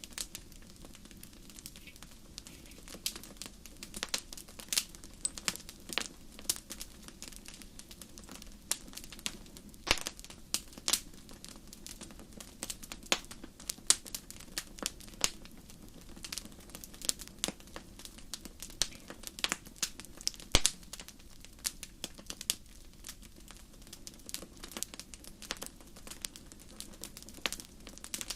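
Campfire crackling: irregular sharp pops and snaps of burning wood, scattered every fraction of a second over a soft steady hiss of the flames.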